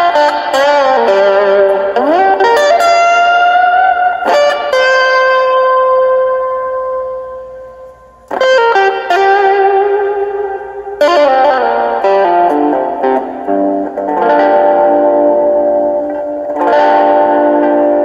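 Overdriven electric guitar lead through a Boss Super Overdrive pedal, a Delta Lab digital delay and a small solid-state practice amp: bent single notes with vibrato, one note left ringing and fading for about four seconds, then a new phrase of sustained notes and chords.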